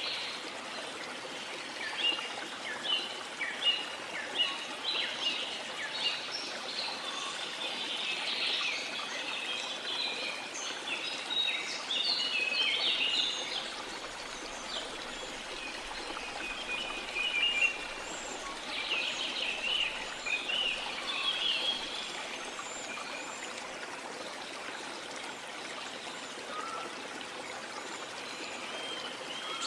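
Small birds chirping and twittering in quick runs over a steady wash of sea water.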